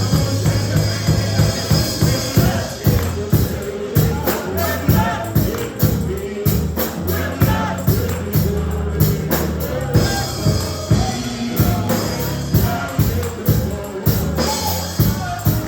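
Up-tempo gospel music from a church band, with a fast steady beat, a heavy bass line and voices singing over it.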